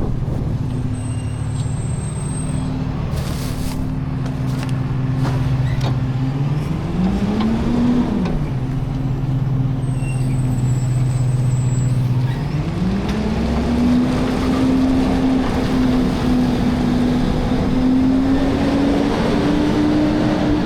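Garbage truck engine running low, briefly revving up and back down, then revving up again and holding at higher revs, with a few short knocks along the way.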